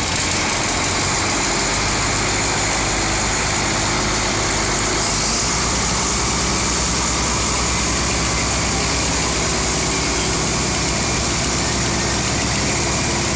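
Tractor engines running steadily over a constant hiss. The low engine note shifts about five seconds in.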